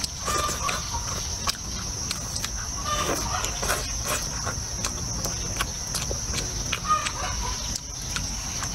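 Close-up chewing and crunching of food, with frequent small wet mouth clicks, over a steady high-pitched insect buzz.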